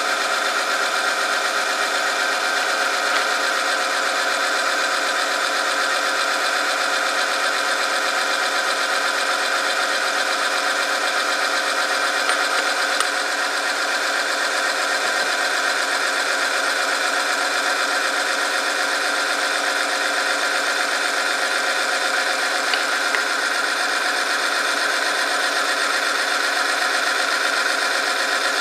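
Oil-film friction test machine running steadily: its electric motor turns a shaft against a metal test sample lubricated with 20W50 engine oil, held under load by weights, giving a constant mechanical whine and grind. A few faint clicks come through it.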